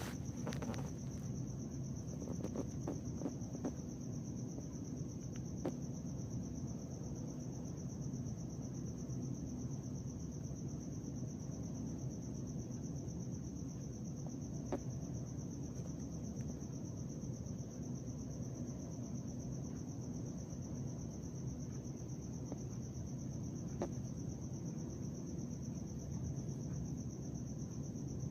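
Crickets chirring in one steady, continuous high note over a low background rumble, with a few faint clicks in the first few seconds.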